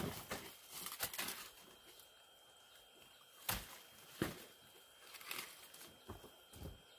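A series of irregular knocks and rustles, several close together in the first second and a half, then single ones spaced about a second apart.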